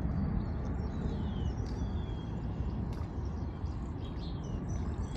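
Wild birds giving a few short, high chirps, several of them sliding down in pitch, over a steady low rumble of wind on the microphone.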